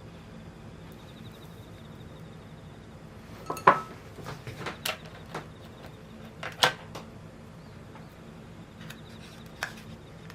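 A few light clicks and knocks of kitchen utensils and containers being handled, the two loudest about four and six and a half seconds in, over a steady low hum.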